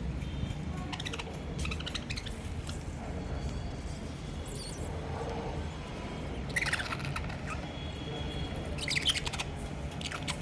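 Pet parakeets chirping in short scattered bursts, with a small bell toy in the cage jingling as a bird plays with it. The loudest bursts come about two thirds of the way in and again near the end, over a low steady hum.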